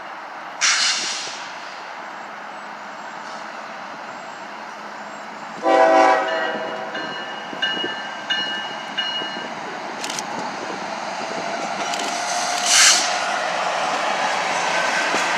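A BNSF freight locomotive's air horn sounds a loud chord about six seconds in, followed by several shorter blasts, over the steady rumble of the approaching diesel freight train. The rumble grows louder toward the end. Two brief rushes of noise come just under a second in and again near the end.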